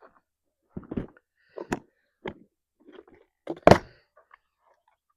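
A handful of separate knocks and clunks of hard objects being handled and set down, about five in all, the loudest a sharp clunk about two-thirds of the way through.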